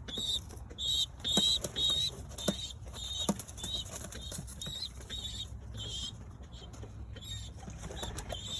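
Birds in a pigeon loft: a run of short high chirps with a wavering pitch, about two or three a second, mixed with scattered sharp clicks.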